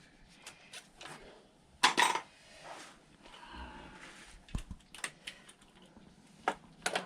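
Scattered metallic clinks and clicks of hand tools on the 10mm bolts holding a scooter's air filter box. The loudest clank comes about two seconds in.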